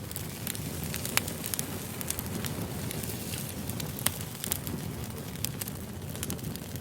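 Wood campfire burning: a steady low rumble of flames with irregular sharp crackles and pops, the loudest pops about a second in and about four seconds in.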